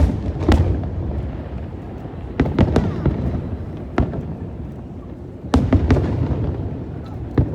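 Aerial fireworks display: sharp bangs of shells bursting overhead, several in quick succession, over a continuous low rumble of further bursts.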